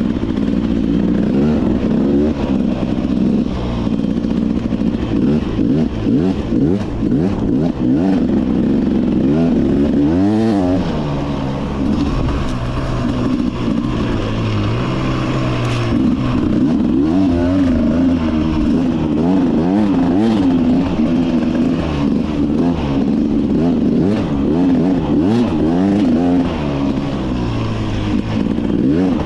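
Beta 300 RR two-stroke single-cylinder dirt bike engine being ridden, its revs rising and falling continually as the throttle is worked, with sharp drops and climbs in pitch about ten and sixteen seconds in.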